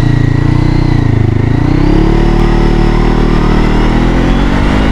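Honda CBR500R's parallel-twin engine accelerating from idle. The revs climb, drop about a second in, climb again and hold steady, then ease off near the end.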